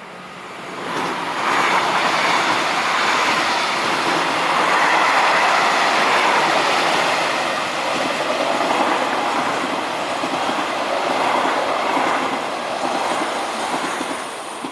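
Train passing close by, its wheels and cars rushing past on the rails. The noise swells about a second in, stays loud, and falls away near the end.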